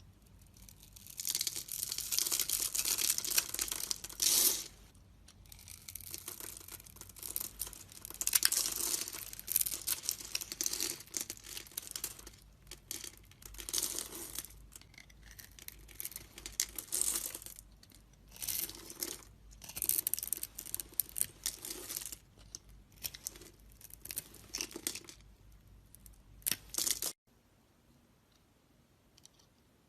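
Knife blade carving and scraping a bar of soap, in a series of scratchy, crackling strokes one to three seconds long. The strokes stop suddenly about three seconds before the end.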